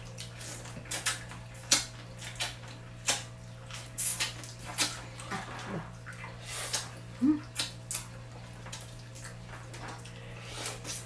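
Close-up eating of shellfish by hand: irregular sharp cracks and clicks as shells are broken, mixed with wet sucking and smacking mouth sounds.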